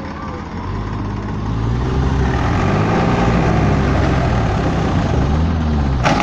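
Tractor diesel engine running and growing louder, its note rising and falling as the engine speed changes.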